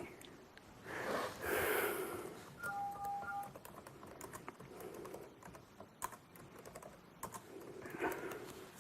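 Typing on a computer keyboard: irregular key clicks, with a short electronic beep of a few tones about three seconds in.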